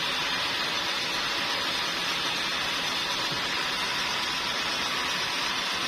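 Sawmill machinery running with a steady, even hiss, no rhythm or distinct strokes.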